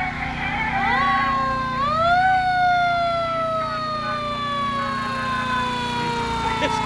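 Fire truck siren winding up in two steps, about one and two seconds in, then slowly falling in pitch.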